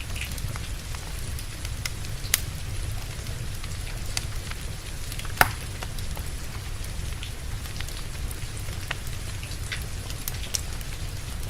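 Steady rain with a crackling wood fire: a constant low rumble and hiss of rain under many small crackles, with two sharper pops, one about two seconds in and one about five seconds in.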